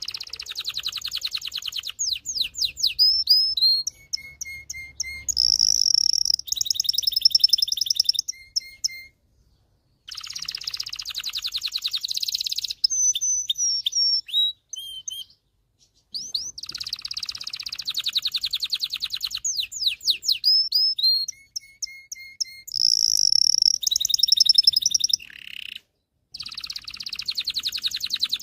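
Male domestic canary singing long phrases of rapid trills and whistled notes. The song breaks off in short pauses about 9, 15 and 26 seconds in.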